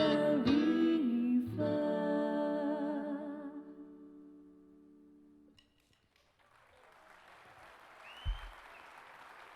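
Live band and singers finish a line and hold a final chord, which dies away over a few seconds to a brief hush. Faint audience applause then rises near the end.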